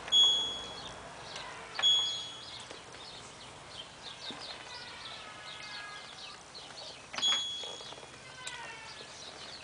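LG washing machine control panel beeping as settings are changed: three short single-pitch beeps, just after the start, about two seconds in and about seven seconds in. Faint chirping sweeps run underneath.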